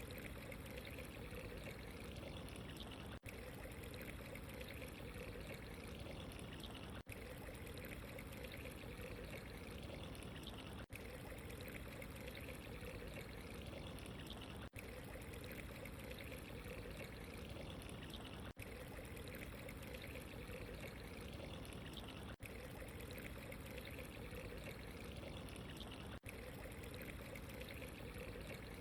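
Steady running water, a continuous pouring, trickling flow. It drops out very briefly about every four seconds, like the seams of a short looped recording.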